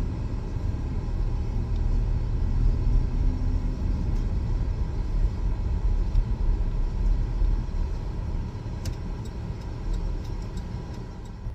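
Low, steady rumble of a Buick car driving, heard from inside the cabin: road and engine noise, with a few light clicks near the end.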